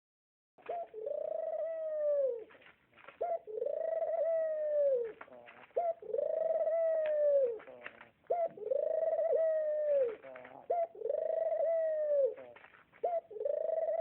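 An animal call repeated six times, about every two and a half seconds: each call is a short note followed by a drawn-out tone that rises a little and falls away at the end.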